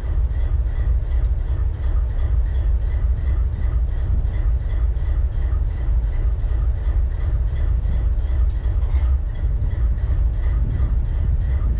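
Diesel locomotive engine idling with a misfire, a steady deep rumble with a regular pulsing beat of a few strokes a second.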